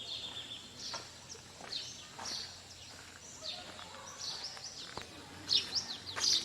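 Birds chirping and calling in short, high notes and quick trills over faint steady background noise. The calls grow louder about five and a half seconds in.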